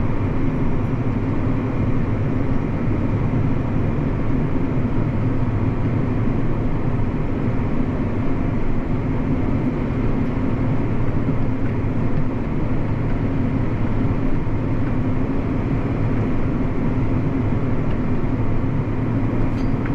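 Steady heavy engine drone of farm machinery running under load: a tractor with a grain cart running beside a combine that is unloading wheat into it.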